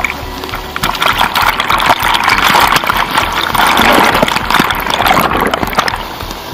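Water splashing and churning close to the microphone in an underground river, swelling from about a second in and fading near the end.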